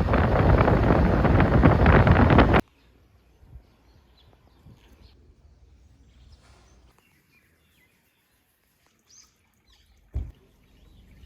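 A loud, even rushing noise that cuts off suddenly about two and a half seconds in, then faint outdoor quiet with a few scattered bird chirps and a brief knock near the end.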